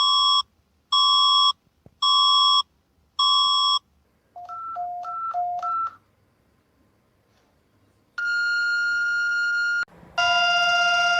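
Synthesized electronic alert tones of a mock Emergency Alert System alarm. There are four short beeps about a second apart, then quick beeps alternating between a low and a high pitch. After a pause comes one long steady tone, and about ten seconds in a sustained chord of several tones begins.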